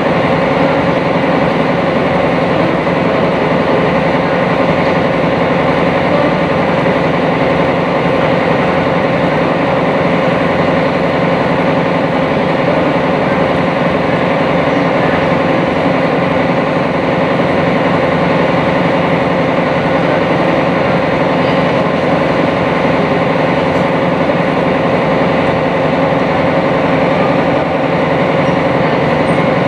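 Sightseeing boat's engine running steadily underway, heard from on board: a constant, even drone.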